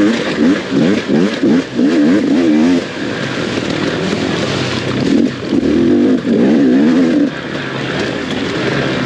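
Off-road dirt bike engine being ridden hard, its pitch rising and falling quickly with the throttle, louder in the first few seconds and again about two-thirds of the way through.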